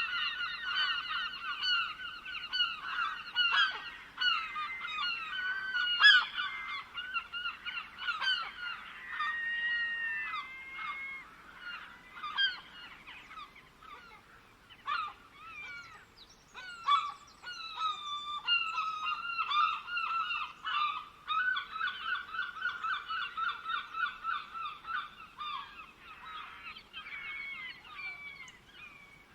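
Birds calling: fast runs of repeated harsh, honking notes mixed with chirps and short gliding whistles. The calling thins out around the middle, builds again, and tapers off near the end.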